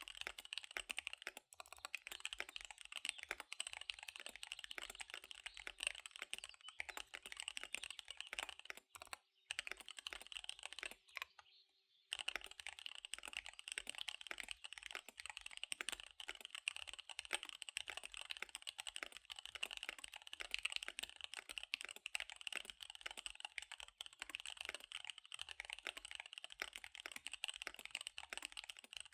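Fast typing on a KBD75 V3 mechanical keyboard with SP-Star Dark Magic Girl tactile switches and DSA keycaps: a dense, rapid run of key clicks, broken by two short pauses a little before the middle.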